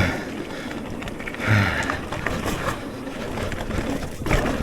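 Electric mountain bike riding over a dirt trail: steady wind and tyre noise with rattling from the bike. There is a louder rumbling jolt about a second and a half in and a sharp knock near the end.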